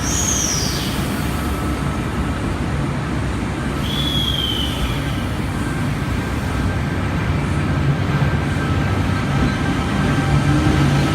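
Train moving through a station, a steady low hum and rumble, with two short high-pitched squeals that fall in pitch: one at the start and one about four seconds in. The rumble grows a little louder near the end.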